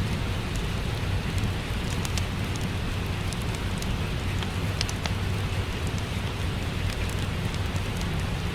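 Steady rain mixed with a crackling fireplace: an even rush of rain with a deep steady rumble beneath it, and scattered sharp crackles and pops on top.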